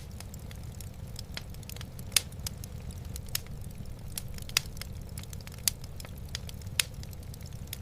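Wood fire burning in a fireplace, crackling with irregular sharp pops, a handful of them louder, over a steady low rumble.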